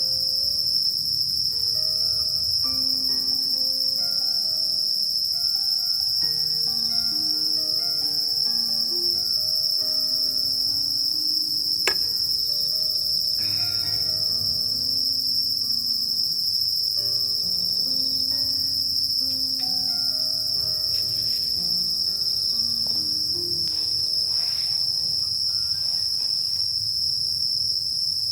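Steady, high-pitched chorus of crickets and other night insects, unbroken throughout. A soft melody of notes plays underneath, and there is a single sharp click about twelve seconds in.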